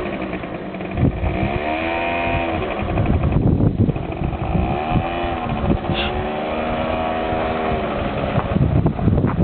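Quad bike engine revving up and easing off several times, its pitch rising and falling as the throttle opens and closes.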